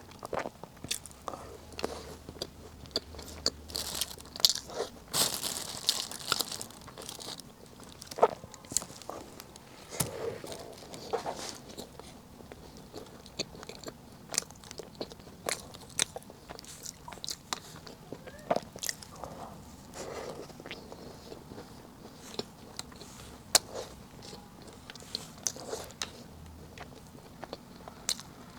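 Close-miked eating of a Chaoshan chestnut cake: bites and chewing, with irregular sharp crunches of the slightly crisp pastry skin.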